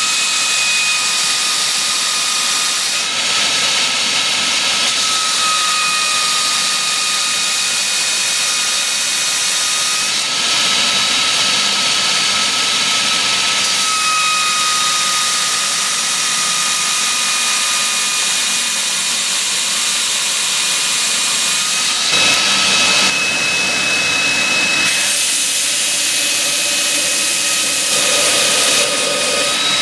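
Industrial belt grinder running: a steady high whine over loud, even hissing noise, the hiss growing brighter and louder for a few seconds at a time and then easing back.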